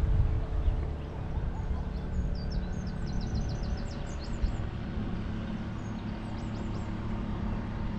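A small bird chirps twice in quick runs of short, high notes, first about two seconds in and again near the end, over a steady low hum like distant traffic.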